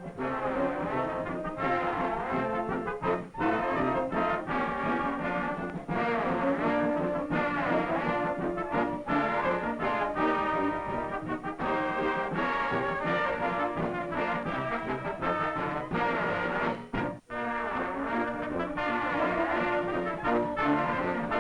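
Brass band music with trombones and trumpets playing a tune, broken by a brief pause about three-quarters of the way through.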